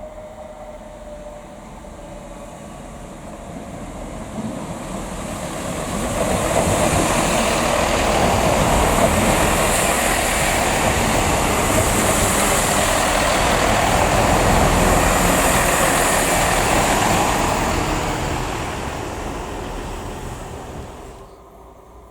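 A train passing through a station: wheel and rolling noise builds over a few seconds, stays loud for about twelve seconds, then fades and cuts off abruptly near the end.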